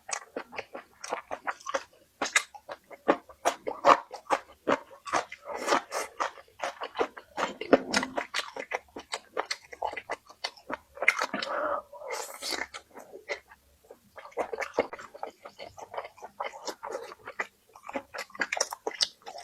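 A person chewing and crunching food: a dense run of quick, crisp clicks with brief pauses.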